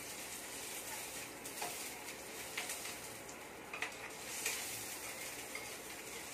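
Chopped white onion sizzling in a nonstick frying pan as a spatula stirs it, with a few sharp clicks of the spatula scraping and tapping the pan.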